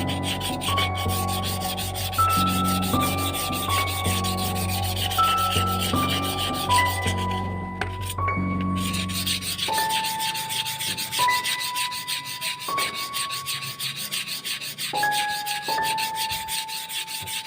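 Fast, steady abrasive rubbing on the rusty steel of a bicycle handlebar, as rust is scrubbed or sanded off. A simple melody of held notes plays over it.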